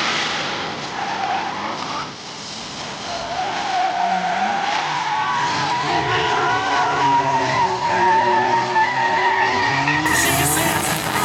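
A drift car's tyres squealing as it slides sideways under power, over its engine. The squeal wavers up and down in pitch and grows stronger a few seconds in.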